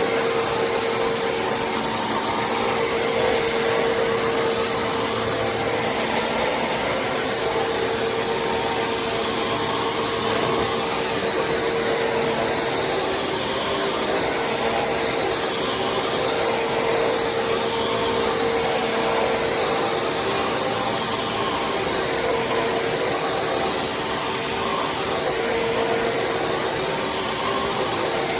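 Bissell CleanView Compact upright vacuum (model 3508) running steadily, a motor whine with a high tone held over the rush of air. The sound wavers slightly about halfway through.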